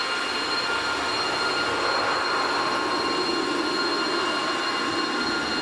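Car wash electric blower motor running with a steady high whine over a rushing air noise.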